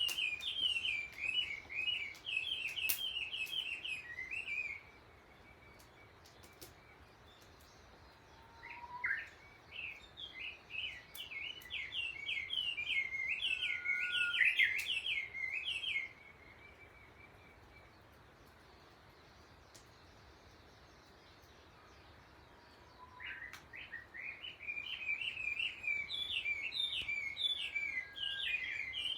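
Japanese bush warbler singing: three long runs of rapid, chattering high notes, each opening with a short rising note, separated by pauses of several seconds.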